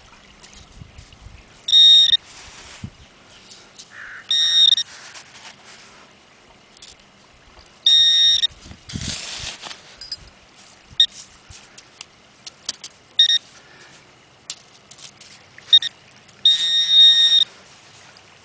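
Handheld metal-detecting pinpointer sounding a steady high beep in repeated bursts, some brief and some about a second long, as it is passed over a buried metal target. A short scrape of sand comes between the beeps near the middle.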